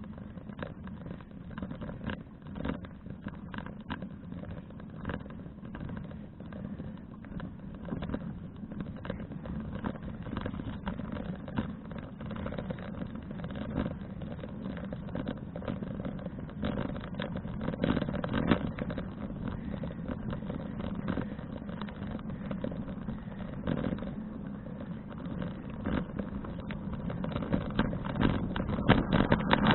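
Wind buffeting an action camera's microphone, with road noise from a bicycle being ridden: a steady rumble broken by frequent crackles and knocks. It grows louder near the end.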